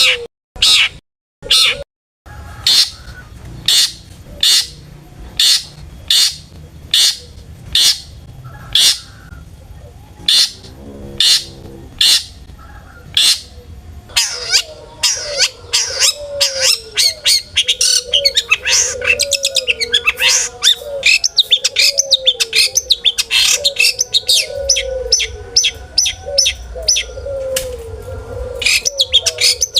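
Long-tailed shrike (cendet) calling: a string of sharp, harsh notes about every half second. About halfway through it breaks into a faster, busier chattering song with lower warbled notes beneath.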